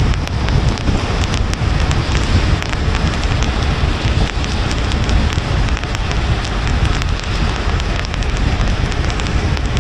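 Rain pattering on a moving car, many small drop hits over a steady low rumble of tyres and road.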